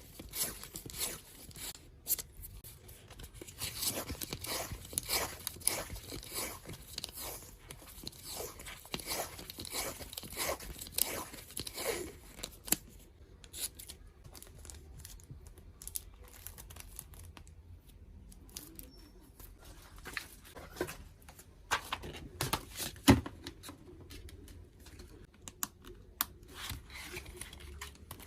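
Hands working with tape and plastic packaging: tape tearing, crinkling and rustling, with scattered small clicks and taps and one louder knock near the end.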